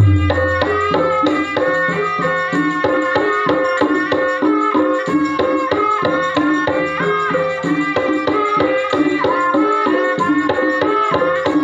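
Traditional Javanese gamelan music accompanying an ebeg horse dance: hand drums beating under a melody of pitched struck notes, with a few deep low drum strokes at the start.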